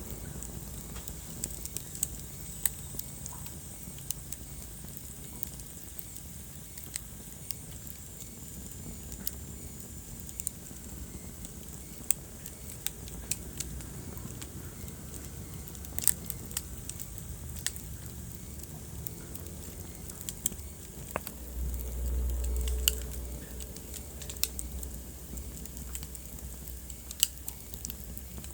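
Wood fire crackling in a fireplace: irregular sharp pops and snaps over a steady low rumble of the flames, with the rumble swelling louder for about two seconds about three-quarters of the way through.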